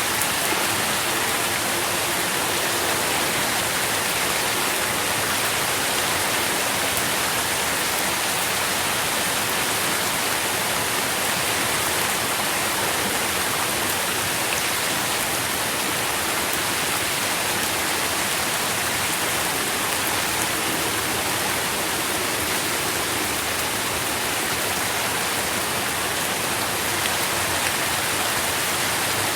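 Steady, even rain falling, with a dense patter of drops on leaves and the ground.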